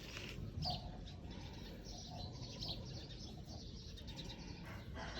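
Faint, short high-pitched chirps, a few scattered calls, over a steady low background hum.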